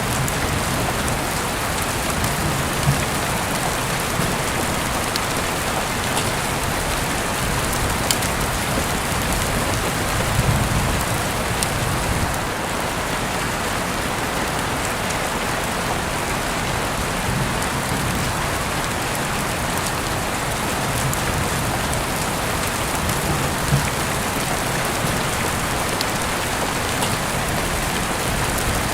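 Steady rain falling on a surface, an even hiss with a few sharp ticks scattered through it.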